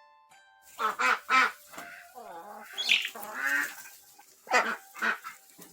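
Ducks quacking, a run of short calls repeated many times. A few soft notes of background music fade out at the very start.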